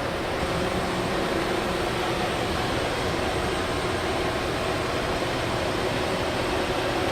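Niigata HN80C horizontal machining center running under power: a steady mechanical hum and whir with a few held tones, and a thin high whine that joins just after the start.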